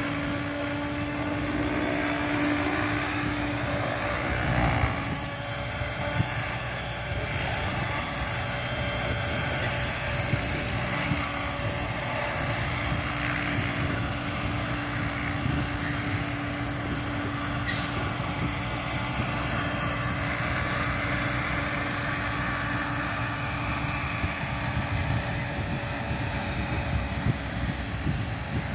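Align T-Rex 700E electric RC helicopter running steadily, its motor and spinning rotor giving a steady, even whine.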